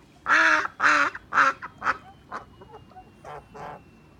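Domestic waterfowl calling: three loud calls in quick succession in the first second and a half, then a string of softer, shorter calls.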